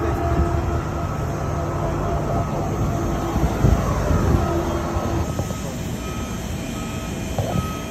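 A motor vehicle running with a steady low rumble; in the second half short high beeps repeat about once every second.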